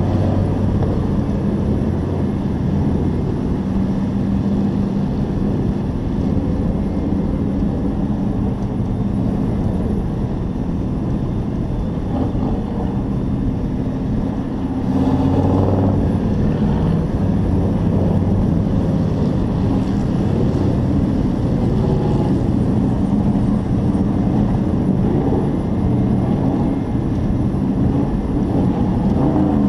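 Hobby-class race truck engine running hard, heard onboard, its pitch rising and falling as the driver works the throttle through the laps. It gets a little louder about halfway through.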